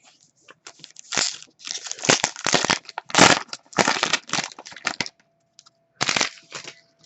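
Crinkling and rustling as hockey trading cards and their packaging are handled, in a run of short noisy bursts from about a second in, then a couple more near the end.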